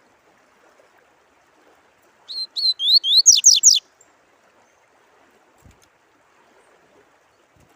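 A caged songbird sings one short phrase of about eight quick, upward-sliding whistled notes that climb in pitch and speed up, over a faint steady sound of running water.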